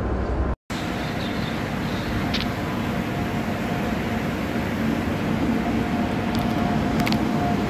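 Indian Railways electric locomotive hauling a passenger train into the platform: a steady rumble with a faint whine, and a couple of sharp clicks.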